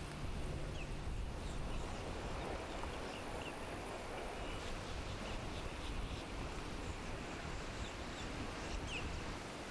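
Steady outdoor background noise, a low rumble with hiss, with a few faint short chirps scattered through it.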